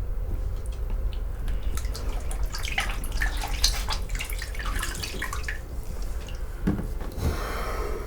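Water dripping and splashing in irregular drops, densest in the middle, over a steady low rumble.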